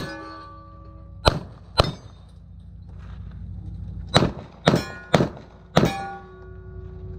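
Pistol shots, each followed by the ringing clang of a steel target being hit. There are two shots about a second in, then four more about half a second apart from about four seconds in, each leaving a ringing tone.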